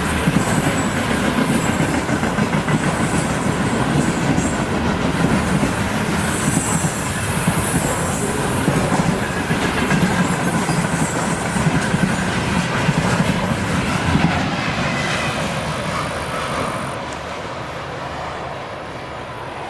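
Freight train wagons rolling past on the rails, with steady wheel-on-rail noise that gets quieter about three-quarters of the way through.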